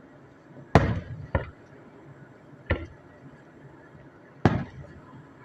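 Aerial firework shells bursting: four sharp booms with short echoing tails, the first two close together, then one more after a second or so and a last near the end.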